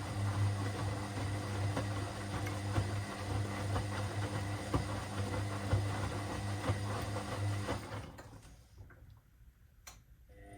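Washing machine motor running with a steady hum and light rattle as the drum turns, then winding down about eight seconds in. A short quiet pause with a click follows before the motor starts up again at the very end, the stop-and-restart of the drum during the wash.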